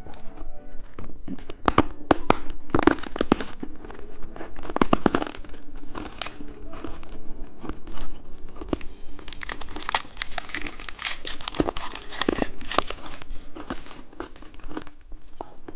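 Plastic candy wrapper crinkling and tearing as it is handled and opened: a dense, crackling rustle with louder spells.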